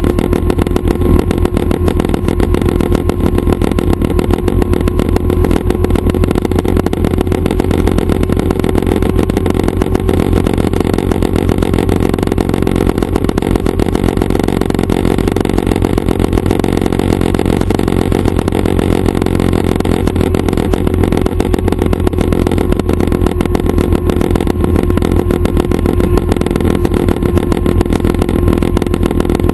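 Schweizer 269 training helicopter running steadily, its piston engine and rotor making a loud, even, fast-pulsing drone.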